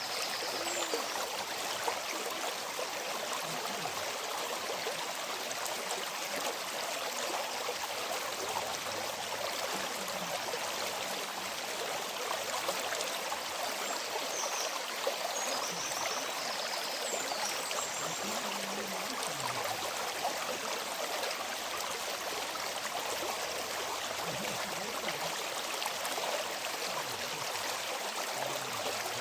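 River water flowing steadily over stones, an even rushing and babbling, with a few faint high chirps about halfway through.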